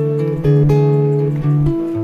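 Background music: acoustic guitar strummed and picked, chords changing about every half second.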